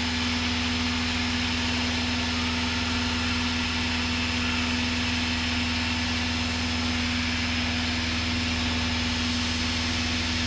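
Piston engine and propeller of a single-engine light aircraft droning steadily in flight, heard inside the cockpit at unchanging power.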